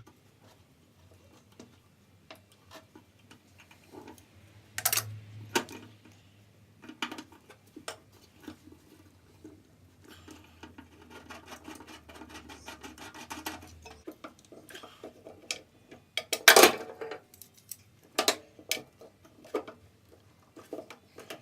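Hand nutsert (rivet-nut) gun being squeezed to set M6 nutserts in a steel panel: scattered metallic clicks and clanks. The loudest clanks come about five seconds in and again about sixteen seconds in.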